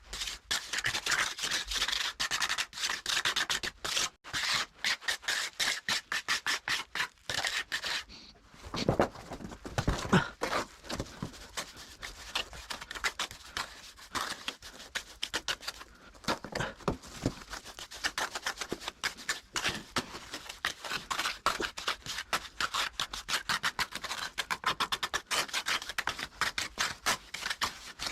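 Plastering trowel scraping and smoothing wet cement mortar in quick repeated strokes, with a short pause about eight seconds in and a few louder knocks just after.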